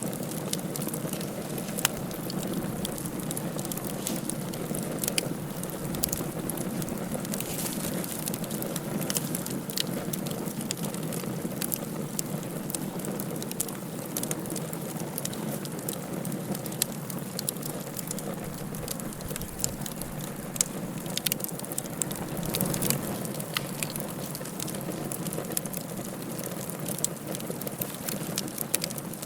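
Wood fire burning in a fireplace: irregular sharp crackles and pops over a steady low rush of the flames.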